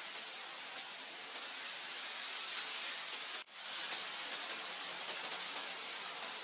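Steady wind blowing over grassland, an even airy hiss with most of its energy high up and little low rumble. The sound drops out for an instant about three and a half seconds in, then comes straight back.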